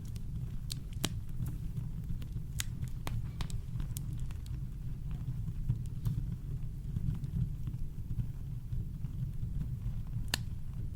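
Campfire crackling, with scattered sharp pops a few seconds apart, over a steady deep low rumble of brown noise.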